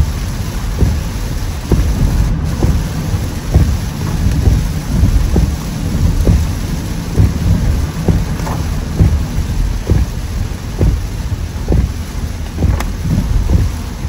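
Heavy downpour drumming on a moving car, over a deep steady rumble, with many short thumps, roughly one a second.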